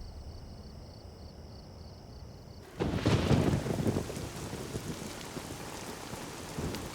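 A quiet stretch with faint steady tones, then about three seconds in a thunderclap rumbles loudly and rain falls steadily.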